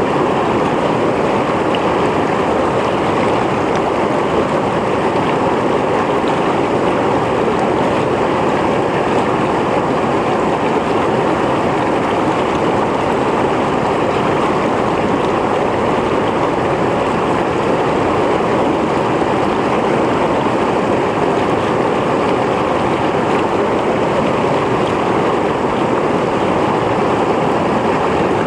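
Mountain stream flowing steadily over rocks: a constant rush of water with no breaks or changes.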